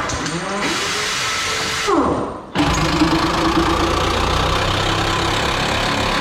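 A motor vehicle's engine running loudly. It rises in pitch, then falls away at about two seconds and cuts to a steady, even run.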